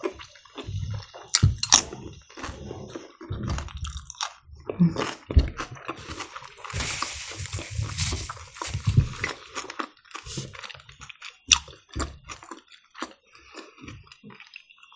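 Close-miked eating sounds: chewing and biting food with irregular wet mouth clicks and smacks. About seven seconds in there is a denser rustling stretch lasting a couple of seconds.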